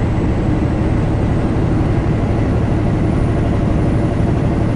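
Steady drone of a semi truck's diesel engine with road noise, heard inside the cab while cruising on the highway.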